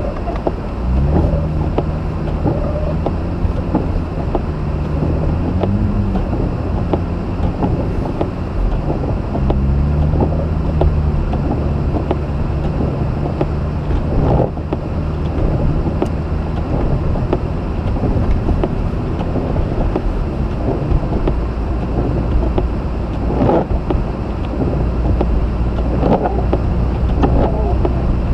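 Mazda RX-8's rotary engine running as the car drives, over a steady hiss of tyre and road noise. The engine note rises and falls a few times in the first ten seconds, then holds steadier, with a few brief knocks.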